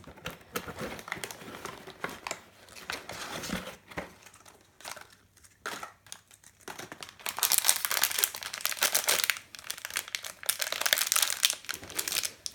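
Toy packaging wrapper crinkling and tearing as a blind package is opened by hand, with the crinkling getting denser and louder about halfway through.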